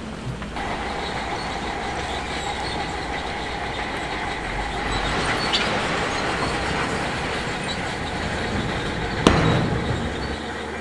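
Shantui DH17C2 crawler bulldozer working, its engine running under a steady grinding squeal from the steel tracks, which grows louder around the middle. A single loud clank comes near the end.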